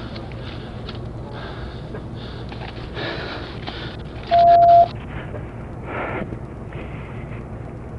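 A single loud electronic beep, one steady tone about half a second long, about halfway through, over a steady low background hum and noise.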